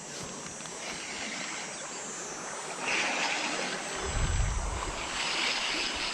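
Creek water running: a steady rushing hiss that grows louder about three seconds in, with a short low rumble of wind on the microphone about four seconds in.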